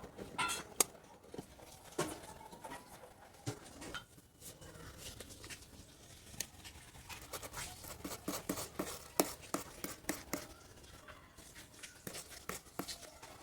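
Irregular light clicks and taps, scattered and unevenly spaced, with a faint room hiss between them.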